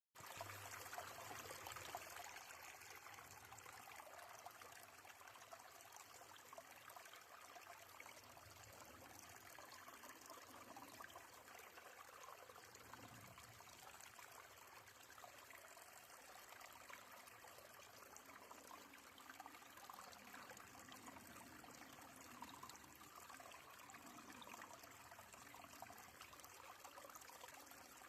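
A small brook running low on water, trickling faintly and steadily.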